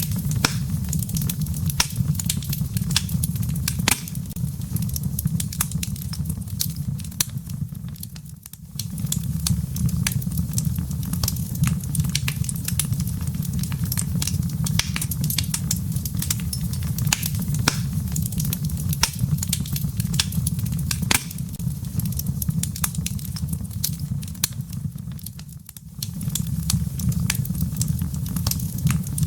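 Wood fire crackling in a fireplace: a steady low rumble of flames with frequent sharp crackles and pops. The rumble fades away briefly twice, about eight seconds in and again about twenty-six seconds in, then comes back.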